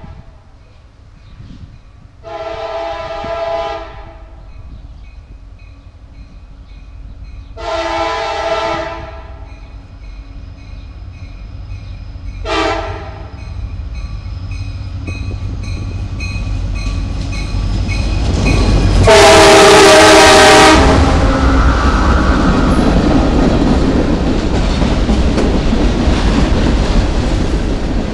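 A CSX freight train's lead SD70MAC locomotive sounds its horn chord in a long, long, short, long pattern, the standard grade-crossing signal, while the train approaches. The last blast is the loudest, as the locomotive passes. Steady rumble and clatter from the passing locomotives and railcars follows.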